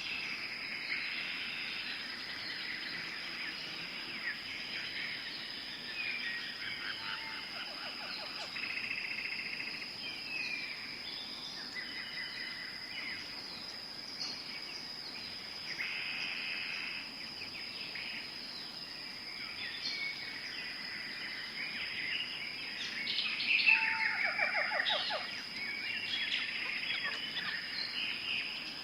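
Tropical forest ambience: many birds calling with chirps and rapid trills over a steady, high insect drone. The calls grow busier and louder late on.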